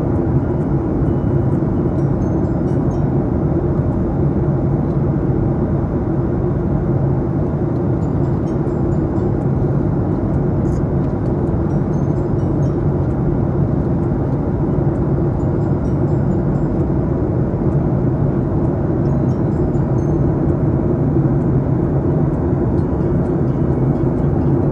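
Steady engine and airflow noise inside an airliner cabin in flight: an even rush with a low steady hum, unchanging throughout.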